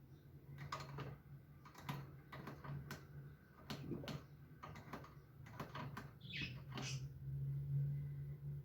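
Irregular light clicks and scratches, about a dozen over several seconds, with a brief higher chirp-like sound near the end, over a low steady hum.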